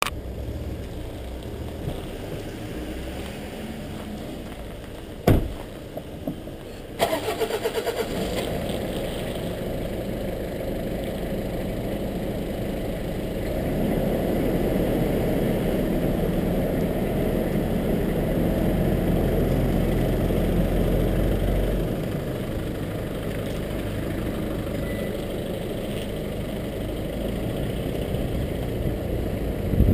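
A sharp thump about five seconds in, then a car engine cranks briefly and starts about seven seconds in. It runs steadily, then louder from about thirteen seconds as the car pulls away, easing back a little just after twenty seconds.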